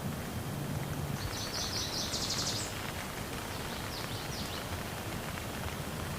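Steady rain falling, an even hiss. About a second in, a bird gives a rapid high trill of repeated notes, and a few shorter high notes follow near the four-second mark.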